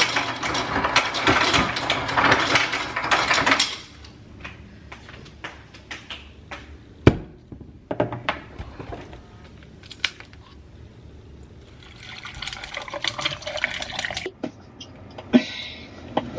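Water running to fill a water bottle for about four seconds, then a few clicks and knocks, and a second, shorter run of water near the end.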